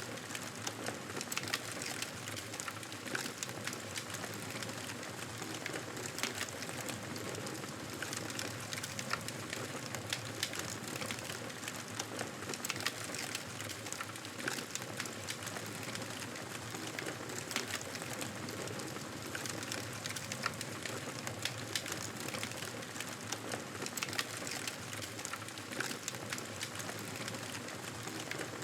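Wood fire burning: a steady hiss with frequent sharp crackles and pops at irregular intervals.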